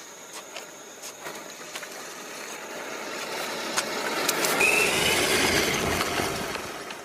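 Scale RC pickup truck driving over rough ground, its motor and tyres growing louder as it comes close, with scattered clicks of stones and a brief rising whine near the peak, then fading away.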